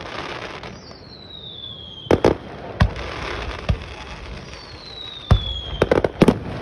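Fireworks display: aerial shells bursting with sharp booms, a quick cluster of bangs near the end. Two falling whistles come before bursts, with crackling in between.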